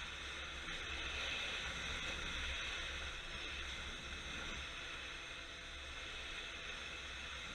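A steady hissing rush of noise with a low rumble underneath, without a clear engine note.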